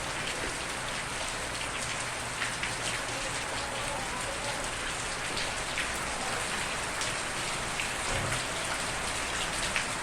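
Steady rain falling on a surface, an even hiss with scattered individual drops ticking through it; no thunder.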